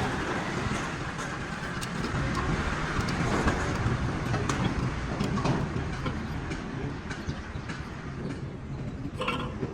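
Vehicle noise: a steady low engine hum, with louder traffic noise fading away at the start, and scattered light clicks.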